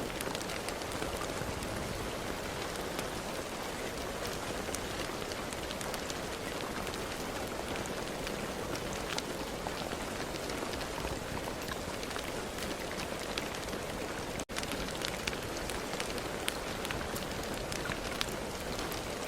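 Steady rain falling, a continuous hiss with many individual drops ticking sharply on a surface. It cuts out for a split second about fourteen seconds in.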